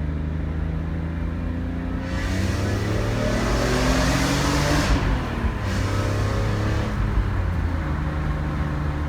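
BMW E46 M3's S54 inline-six with a gutted muffler, running at a steady note, then revving up from about two seconds in with the pitch climbing for around three seconds and the exhaust growing louder and raspier. A brief drop near five seconds, another short pull, then it settles back to a steady drone.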